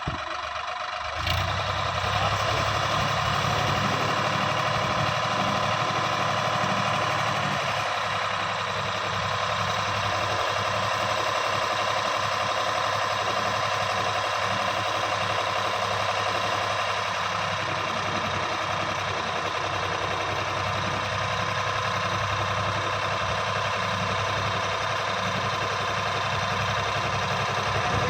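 Sonalika DI 750 tractor's diesel engine rises in level about a second in, then runs steadily at raised speed while working the hydraulic tipper to unload soil.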